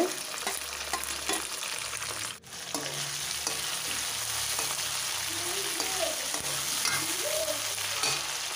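Chopped onion, tomato and ginger sizzling steadily in hot mustard oil in a steel kadhai, stirred with a steel ladle that clinks against the pan a few times.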